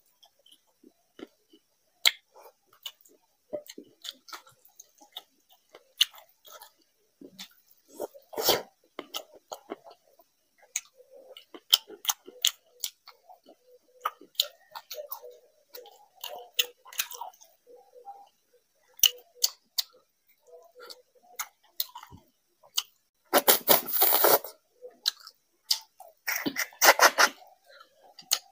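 Close-up chewing and wet mouth clicks of someone eating rice mixed with curry by hand, with fingers working the rice in a glass bowl. The chewing comes as a run of short smacks, with two louder, denser stretches near the end.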